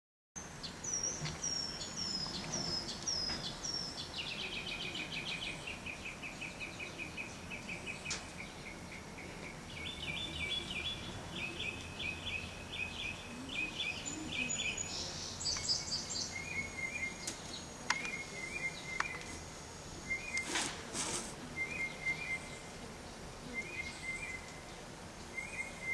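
Songbirds singing over a steady background hiss: a run of high falling notes, then a rapid series of notes stepping down in pitch, then short two-note calls repeated every second or two through the second half.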